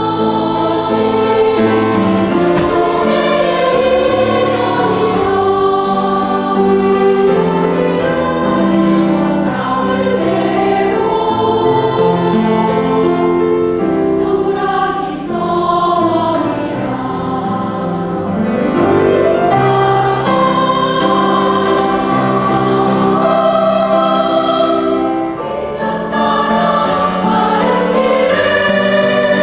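Buddhist temple choir singing in sustained chords.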